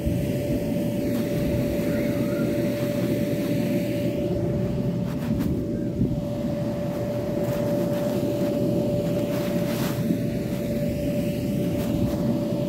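A steady engine drone with one constant tone held at an even pitch, unchanging throughout.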